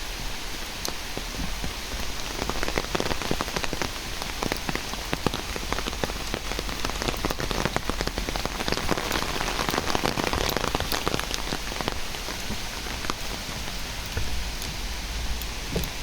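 Steady rain falling, with many close, irregular drop hits on a nearby surface.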